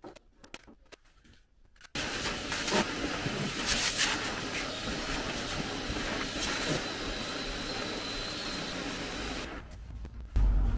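A few faint taps, then a machine's steady rushing noise that starts suddenly about two seconds in and cuts off near the end, with a few light knocks while it runs.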